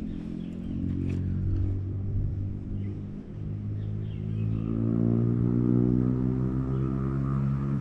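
A motor engine running, its pitch rising and its sound growing louder about four seconds in, then holding steady at the higher pitch.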